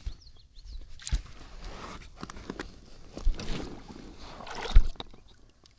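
Gear being handled and set onto an inflatable kayak: scattered knocks and scraping rubs, with sharper thumps about a second in, a little past three seconds and near five seconds.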